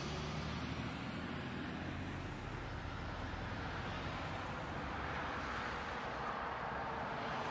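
Steady running noise of a road vehicle in motion: a low rumble with an even hiss above it, without any impact or sudden change.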